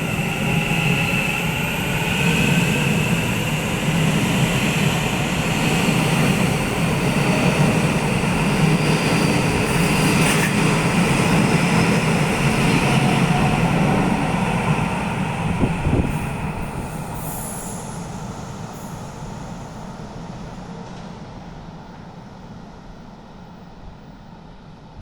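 Taiwan Railway EMU900 electric multiple unit pulling out of the station: cars and wheels running loud and steady, with a sharp knock about sixteen seconds in, then the sound fades away gradually as the train leaves.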